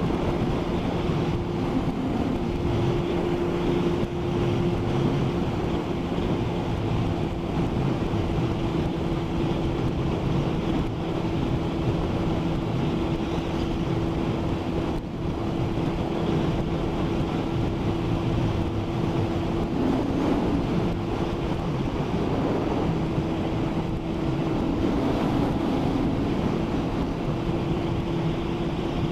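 Motorcycle engine running at a steady, unchanging note while cruising at motorway speed, under heavy wind rush on the microphone and the hiss of a wet road.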